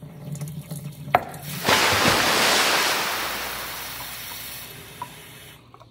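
Kitchen faucet running water into a glass Pyrex measuring cup. A sharp click about a second in, then the stream rises to a strong gush that slowly quietens and stops near the end.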